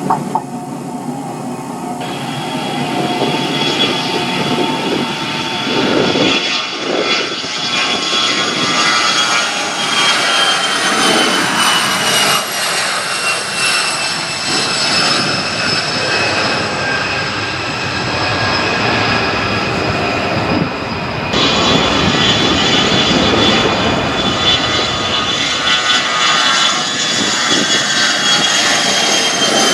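Twin turbofan jet engines of a Boeing 737-based US Navy aircraft, a loud steady rush of engine noise with a high whine that slowly falls in pitch.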